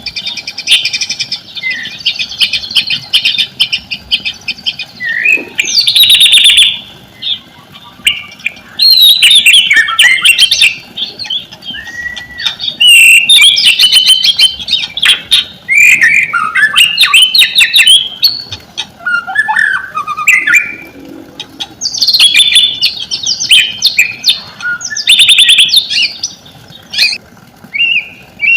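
White-rumped shama (murai batu) singing in full, loud song: bursts of varied whistled phrases and fast chattering notes, separated by short pauses.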